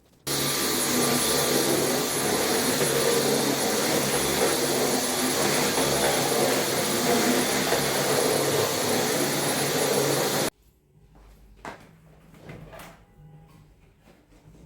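Vacuum cleaner running steadily with a high whistle; it starts abruptly just after the start and cuts off about ten seconds in, followed by a few faint knocks.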